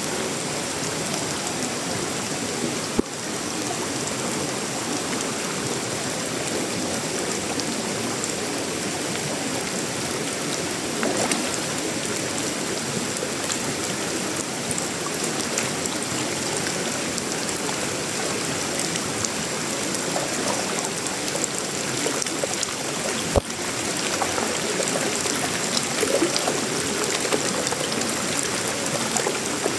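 Steady tropical rain falling on sheet-metal roofing, wood and leaves: an even wash of drops, with a couple of sharper single taps, one about three seconds in and one past the twenty-second mark.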